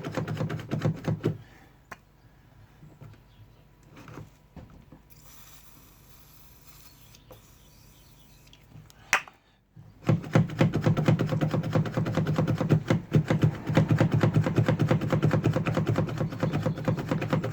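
A VW Passat's door handle being worked rapidly back and forth, a fast rattling clatter. It stops after about a second, leaving a quiet stretch with a single sharp click about nine seconds in, then resumes at about ten seconds. The handle is being worked to spread WD-40 into a sticking latch mechanism that the owner thinks may be rusty.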